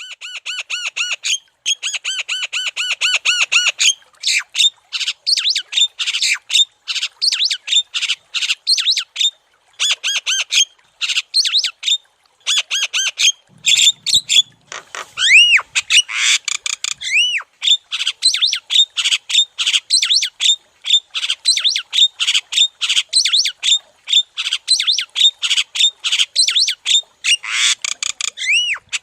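Javan myna (jalak kebo) calling energetically in long, rapid runs of harsh, chattering notes, several a second. A few clear whistled notes that rise and fall are mixed in around the middle and again near the end.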